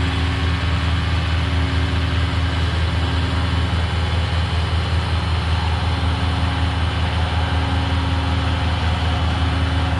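Truck engine idling steadily, a low, even running note that holds without revving.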